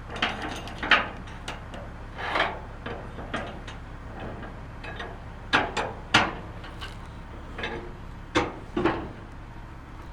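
Irregular knocks, clanks and scrapes of hard gear being handled, a dozen or so sharp hits spread unevenly, with a steady low hum underneath.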